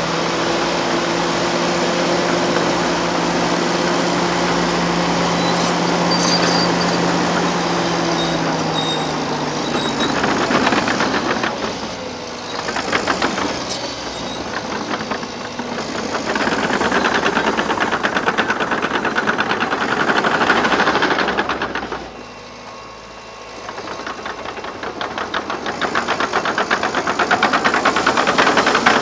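Liebherr PR 726 crawler dozer working: its diesel engine runs under load with a steady whine for the first eight seconds or so, then a fast rattling clatter of the tracks rises and falls. The sound drops off briefly about three quarters of the way through before building again.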